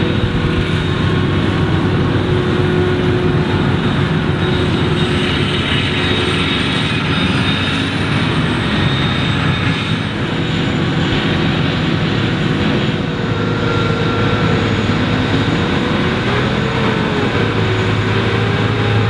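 Claas Jaguar 980 forage harvester's V12 engine running steadily under load while chopping maize, with a mechanical hum and hiss. In the last few seconds a pitch wanders up and down.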